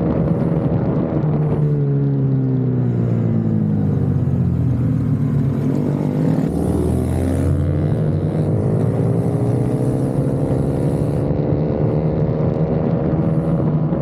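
Racing minibike engine heard from onboard. The revs drop steadily for several seconds as the bike slows into a corner, stay low for about a second, then climb again as it accelerates out.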